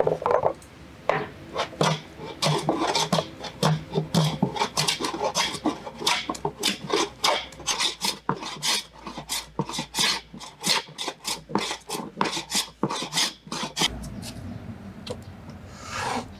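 A hand tool rubbing and rasping across wood in quick repeated strokes, several a second, stopping about fourteen seconds in.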